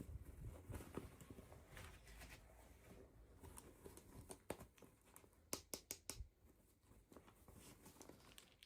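Faint handling of toy packaging: plastic crinkling and rustling with scattered small clicks, and a quick run of sharper clicks a little past the middle.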